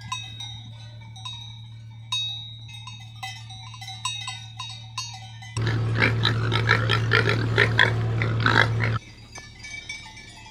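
Bells on grazing livestock clanking irregularly. A louder, rough animal noise breaks in about five and a half seconds in and stops abruptly about three seconds later.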